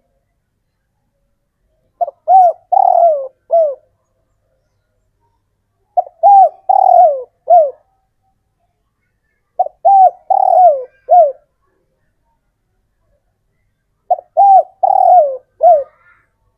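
Male spotted dove (tekukur) cooing: four phrases, one about every four seconds, each of four or five short coos that rise and fall in pitch. This is the male's advertising song, used to call females.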